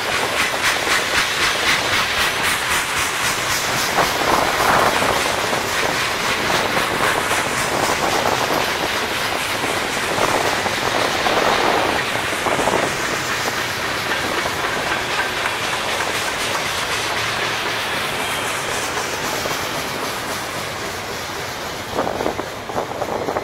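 Freight train of centerbeam lumber flatcars and a tank car rolling past, its wheels clicking over the rail joints; the sound eases off near the end as the last car clears.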